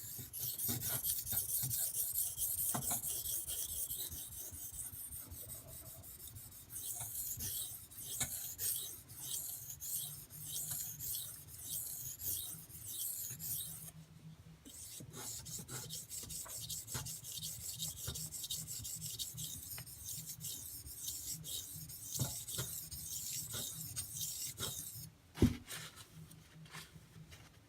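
D2 steel knife blade being stroked back and forth on a wet Arkansas water stone, a steady scraping of steel on stone. The strokes pause briefly near the middle and stop near the end with a single knock.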